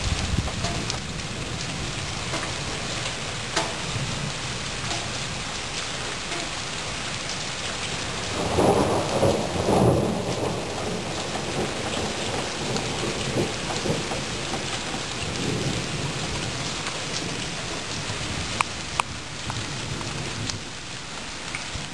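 Steady rain on surfaces with a rumble of thunder that swells about eight seconds in and dies away after a couple of seconds; a few sharp drip ticks near the end.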